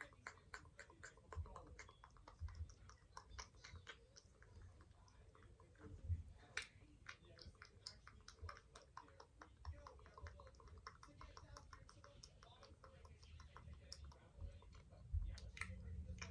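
Makeup items being handled close to the microphone: quiet, irregular clicking and tapping, several small clicks a second at first, with a few sharper ones.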